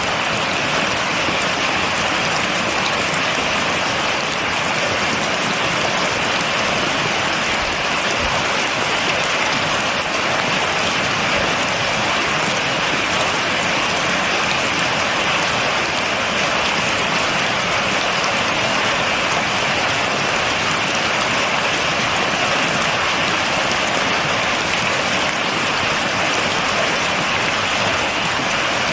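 Steady rain falling and pattering on a surface, a dense even hiss of many drops with no thunder.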